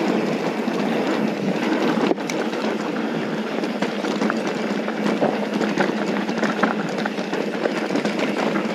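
Mountain bike riding downhill over loose dirt and rocks: tyres crunching and the bike rattling with many small knocks, steady throughout, with a brief break about two seconds in.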